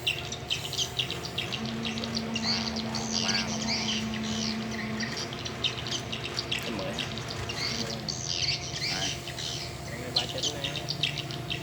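Birds chirping busily in a chorus of short, repeated calls, with a low steady hum for a few seconds near the start.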